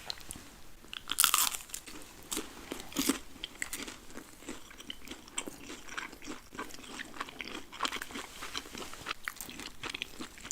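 Close-miked eating of crunchy food: a loud crunching bite about a second in, another near three seconds, then steady chewing with many small crisp crackles.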